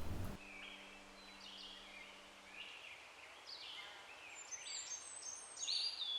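Faint birdsong in a forest: a series of short chirps and whistled calls, several birds overlapping. A low steady hum under it stops about two and a half seconds in.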